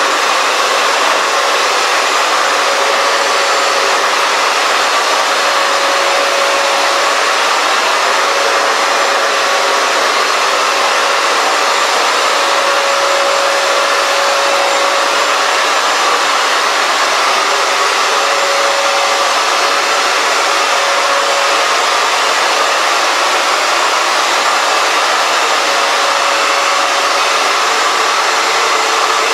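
Hoover FloorMate Edge wet-dry hard floor cleaner running: a loud, steady rush of motor and suction noise with a faint steady tone through it.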